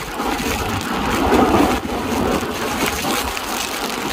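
Steady rushing noise of an express train running through a station in the rain, heard from the open coach door, swelling louder about a second and a half in.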